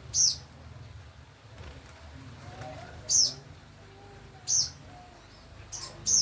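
Songbird singing in vigorous form ('gacor'): four loud, sharp, high chirps, each a quick downward sweep, spaced unevenly a second or three apart.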